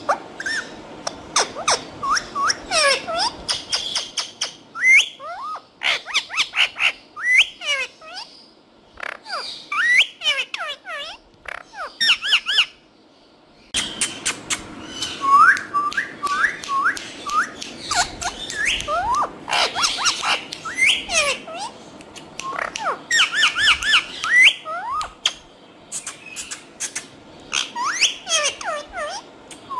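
Green parrots giving rapid, repeated high chirps and squawks, with sharp clicks between the calls. The calling stops briefly about halfway through, then carries on as before.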